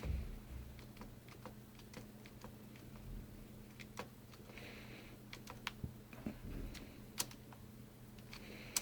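Faint, irregular clicks of controls being pressed, a few a second at most, with louder clicks about four, seven and nine seconds in. A steady low electrical hum runs underneath.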